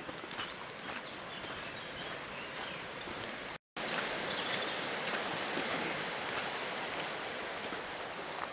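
A steady rushing noise like running water or rain, which cuts out for an instant about a third of the way in.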